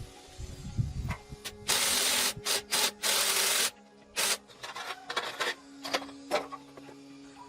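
A series of sharp hissing bursts, two of them loud and lasting more than half a second each, with shorter hisses around them, over faint background music.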